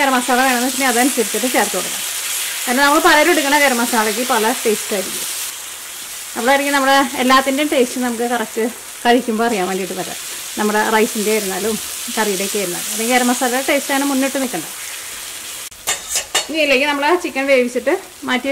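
Thick chicken biryani masala frying and sizzling in a pan as it is stirred with a wooden spatula, with a hiss that runs throughout. A person's voice is heard talking over it for most of the time.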